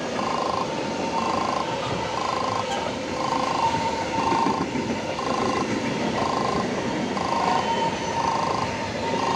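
A train running past with a steady noise of wheels and running gear. Over it, an electronic warning signal beeps about once a second, each beep a short two-note tone.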